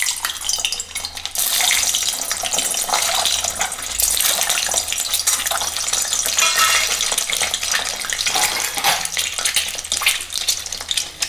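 Peeled hard-boiled eggs sizzling and spattering in hot mustard oil as they are added one after another. The crackling sizzle grows louder about a second and a half in and then holds steady.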